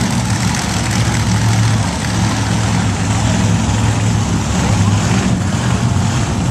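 A monster truck's big engine running steadily at an even, low drone, with no revving.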